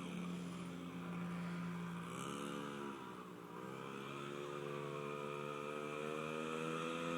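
Small two-stroke engine of an X2 pocket bike running. Its pitch drops about two seconds in, recovers, then climbs steadily as the bike picks up speed.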